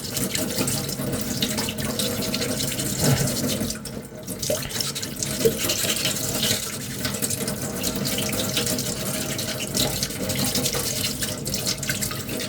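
Tap water running steadily into a sink while a puttied armour piece is wet-sanded, with a short dip in the water noise about four seconds in.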